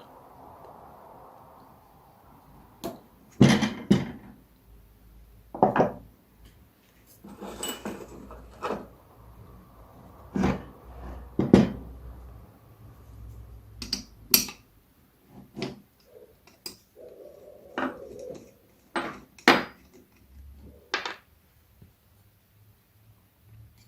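Irregular clinks and knocks of metal tool and machine parts being handled and set down on a workbench: about fifteen sharp separate strikes, a few louder than the rest.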